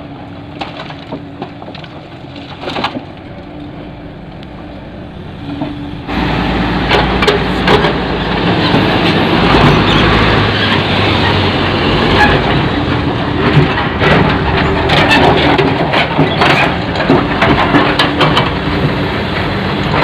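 Rock being loaded into a dump truck's bed: a diesel engine runs under scattered knocks, then about six seconds in the sound jumps much louder into a dense clatter of stones knocking and cracking that keeps going over the engine.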